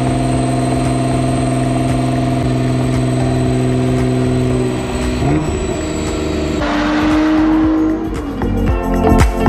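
Nissan GT-R's twin-turbo V6 running at a steady high speed while strapped down on a chassis dyno; about five seconds in the note breaks up and falls away. Music with a beat comes in near the end.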